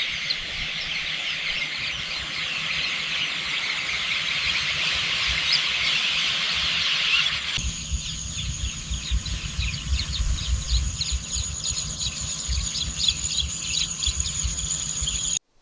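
Countryside ambience with a dense chorus of chirping birds. About halfway through it changes abruptly to a steady high-pitched whine with scattered bird chirps over a low rumble, then cuts off suddenly near the end.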